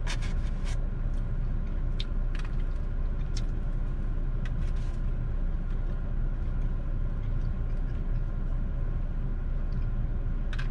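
Steady low rumble inside a car with the engine running, with a few short light clicks and taps in the first half, typical of a utensil against a takeout container.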